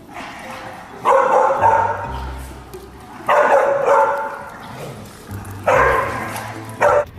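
A dog barking in three loud bouts about two seconds apart, each bout about a second long.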